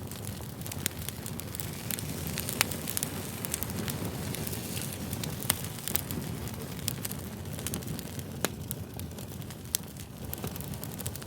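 Wood fire burning, a steady low rush with irregular sharp pops and crackles; a few louder snaps stand out, about a quarter, half and three-quarters of the way through.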